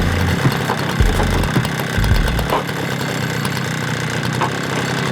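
Power saw running and cutting through the rusted steel body of a Mazda RX-7, a loud, continuous grinding noise with heavy low jolts in the first two and a half seconds before it steadies.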